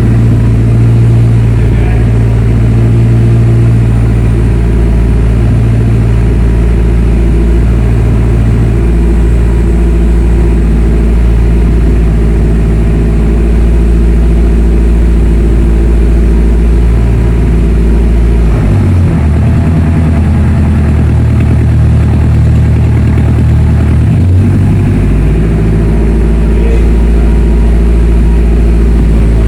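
Turbocharged Honda K24A2 inline-four engine running on a base ECU calibration, idling steadily. About two-thirds of the way in, the engine speed steps up and holds higher for about five seconds, then drops back to idle.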